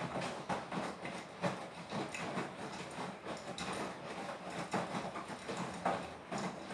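Beko WTK104121W washing machine drum turning during the wash: a steady motor hum under irregular knocks and clatter of the laundry tumbling in the drum.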